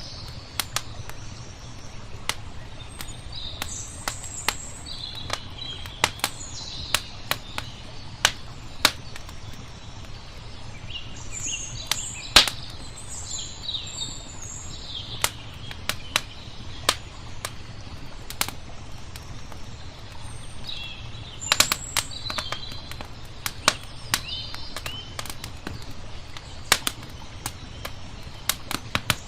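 Wood fire crackling, with sharp irregular pops, the loudest about twelve seconds in, while small birds chirp in short bursts, most busily around the middle and again after twenty seconds. A steady low rumble runs underneath.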